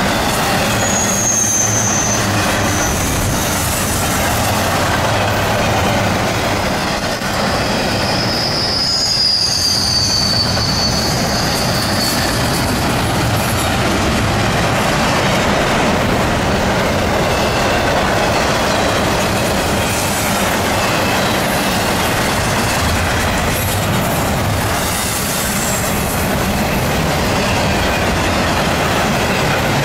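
Well cars of a CSX double-stack container train rolling past: a loud, steady rumble and clatter of steel wheels on rail. High wheel squeals cut in briefly about a second in and again for several seconds around the middle.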